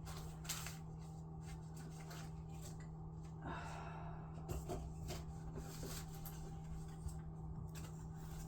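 Faint scattered clicks and rustling of things being handled, over a steady low hum.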